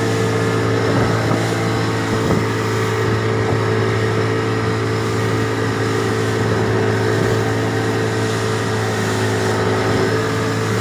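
Boat engine running at a steady speed: a constant low drone with a steady hum above it.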